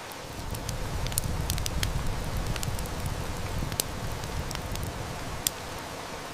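Heavy rain hissing steadily, with a low rumble of distant thunder that swells about half a second in and dies away over the next few seconds. A wood fire crackles throughout, with scattered sharp snaps, two of them louder than the rest.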